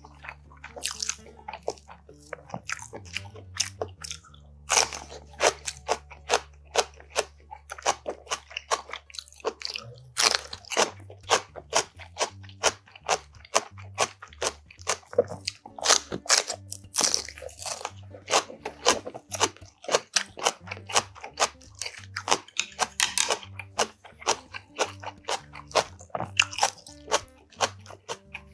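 Close-miked crunching and chewing of food, including bites of a raw green chili pepper, with many irregular crisp crunches. Soft background music with a low bass line plays underneath.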